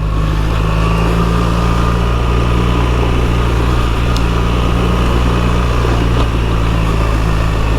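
BMW R 1300 GS's boxer-twin engine running steadily at a constant low speed while the bike rolls along, with a hiss of wind and tyre noise over it.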